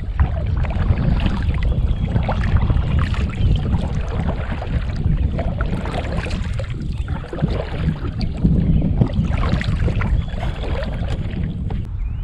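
A kayak being moved back across the water, with irregular splashing and water against the hull, over a steady low rumble of wind on the microphone.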